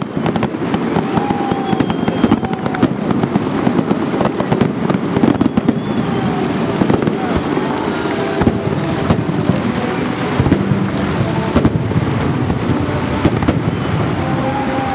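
Festive fireworks salute going off: a dense, continuous run of bangs and crackles over a rumbling background.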